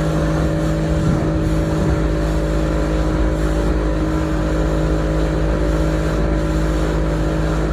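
Motorboat engine running steadily at a constant speed, with the rush of wind and water under it.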